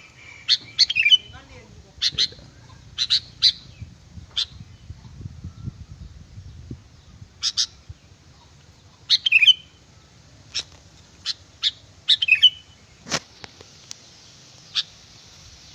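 Sooty-headed bulbul (kutilang) giving short, sharp chirps, singly and in quick pairs or runs of three, some ending in a brief falling flourish. A faint steady hiss comes up near the end.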